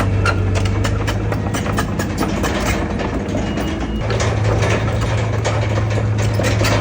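A heavy diesel earthmoving machine's engine runs with a steady low hum and frequent metallic clanks and rattles. The engine note weakens in the middle, then comes back stronger about four seconds in.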